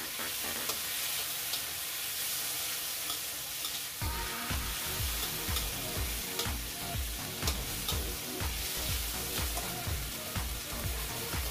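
Pork spare rib pieces sizzling in hot oil in a stainless steel wok, with a spatula scraping and clicking against the metal as they are stir-fried. Background music with a steady low beat comes in about four seconds in.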